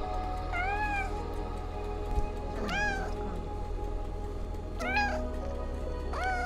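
Domestic cat meowing four times, short meows that rise and fall in pitch, about two seconds apart, over background music.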